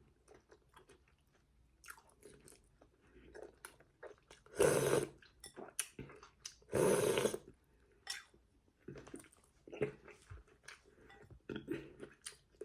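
A person chewing and crunching food close to the microphone, with many small mouth clicks and two louder noisy bursts about two seconds apart near the middle.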